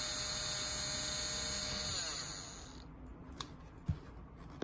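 Small PROXXON pen-type electric tool running at speed with a steady high whine, switched off about two seconds in and winding down in pitch. Then a few sharp clicks.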